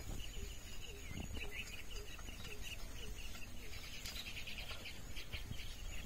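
Birds calling: a short low note repeated about twice a second for the first three seconds, over a high, pulsing trill that grows stronger later on.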